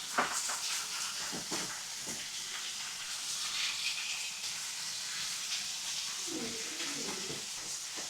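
Food sizzling on a hot marble slab over a fireplace fire: a steady hiss with a few scattered clicks.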